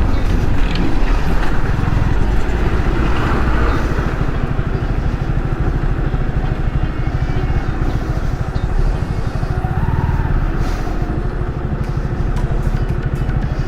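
Yamaha R15 V3's single-cylinder engine running steadily at highway speed, mixed with wind rush on the microphone.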